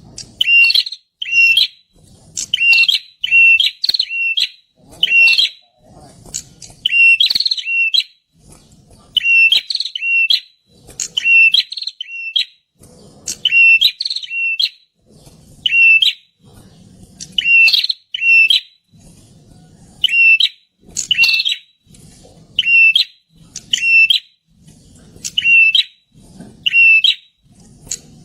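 Perenjak (prinia) calling loudly: short, sharp high notes repeated over and over, about one a second and often in quick pairs.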